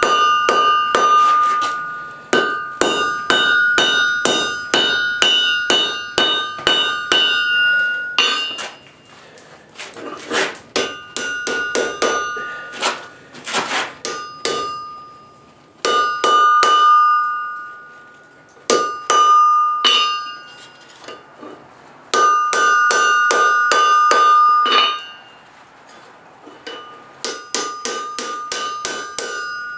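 Forging hammer blows on hot spring steel over an anvil, in runs of quick strikes about two a second, each leaving the anvil ringing with a clear, steady tone. The runs stop and start several times with short gaps between them.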